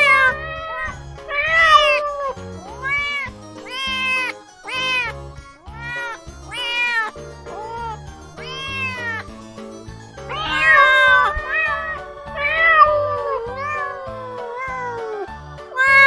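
Kittens meowing, a long series of short rising-and-falling meows one after another, over background music.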